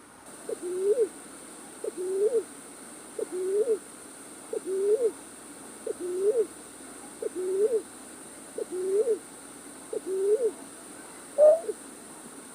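Night-bird lure call for bird trapping: a low two-part hooting call, a short note then a rising one, repeated evenly about every 1.4 seconds, with a louder, higher call near the end. A steady high hiss runs under it.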